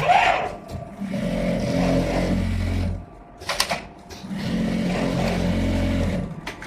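JUKI automatic pocket sewing machine stitching in two steady runs of about two seconds each, with a couple of sharp clacks from the machine's mechanism between them.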